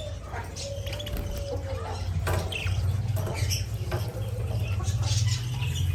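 Pet budgerigars pecking and nibbling at egg food: scattered small clicks and a few soft chirps over a steady low hum.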